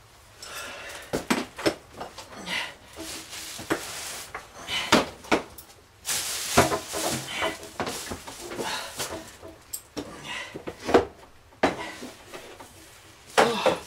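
Irregular knocks, clicks and clatter, as of objects being handled and set down.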